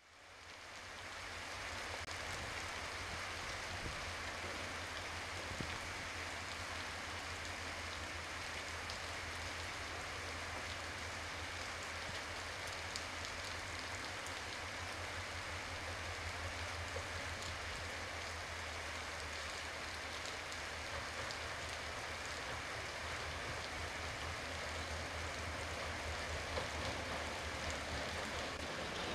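Steady hiss of light rain with a low hum underneath. Near the end it grows a little louder as a diesel-hauled passenger train approaches in the distance.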